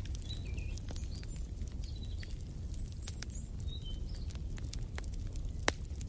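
Wood fire crackling with many small pops over a steady low rumble, and one louder pop near the end. Small birds chirp several short high notes during the first few seconds.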